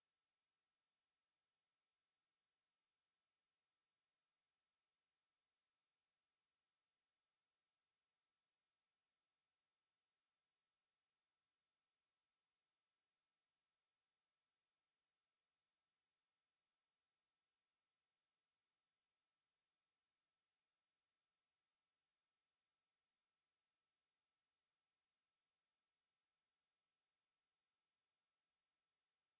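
A pure 6173 Hz sine-wave test tone, a single high-pitched steady whistle held at constant pitch and level.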